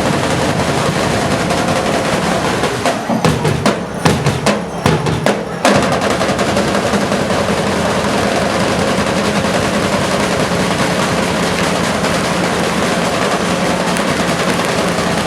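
Drum-led music with snare and bass drums playing a dense, steady beat. Between about three and six seconds in it breaks into separate accented strokes, then the steady drumming resumes.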